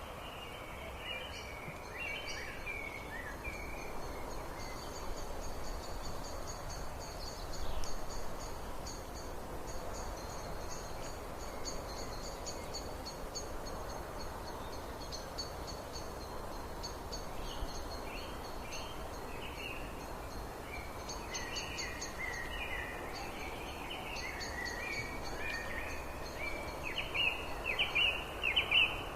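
Wild birds singing: high, rapid trilled series of notes repeating through most of the clip, with lower chirping phrases at the start and increasingly from about two-thirds of the way in, over a steady background hiss.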